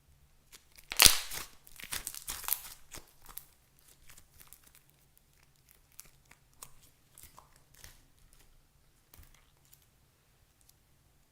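Crinkling and tearing of a crinkly material being handled, loudest in a burst about a second in that lasts about two seconds, then scattered faint crackles.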